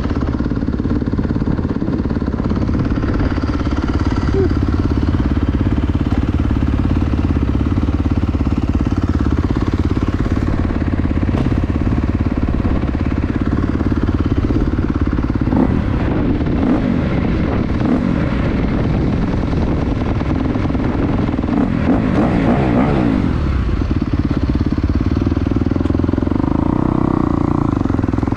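2022 Kawasaki KX250's single-cylinder four-stroke engine running, its pitch rising and falling, with heavy wind noise on the microphone.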